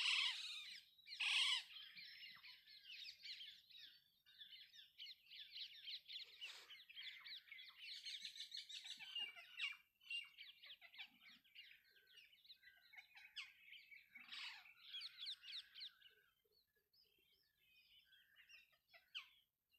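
Faint birds chirping, many short calls and trills overlapping, thinning out about three-quarters of the way through.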